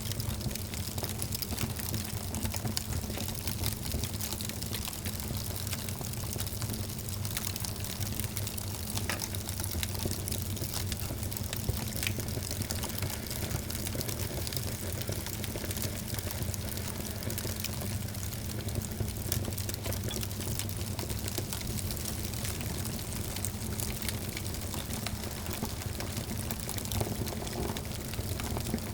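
Wood fire crackling steadily: many small, sharp pops and snaps over a low, constant rumble of flame.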